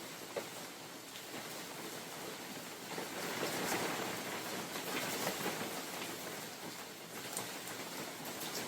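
Steady rain falling on a forest, individual drops ticking on leaves, swelling for a few seconds in the middle as a gust of wind blows through.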